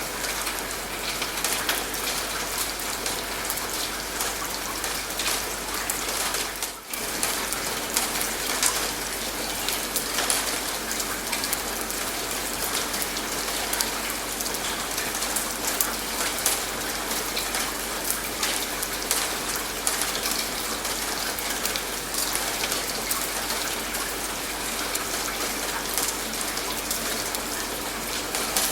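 Steady rain falling, with many separate drops pattering on a surface. The sound dips briefly about seven seconds in, then carries on unchanged.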